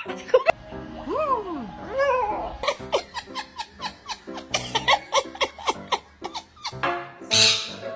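A pet parrot vocalizing: whistled notes that rise and fall in arches, then a run of short choppy laugh-like calls, ending in a harsh screech.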